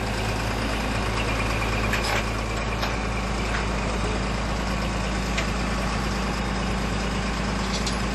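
Tow truck engine running steadily at a low, even hum, with a few faint clicks over it.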